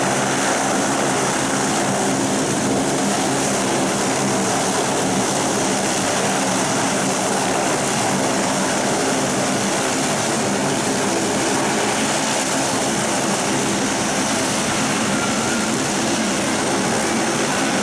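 Saab 340B twin turboprop engines (GE CT7) running at a steady power setting: an unchanging propeller drone made of several fixed low tones over a broad rushing hiss.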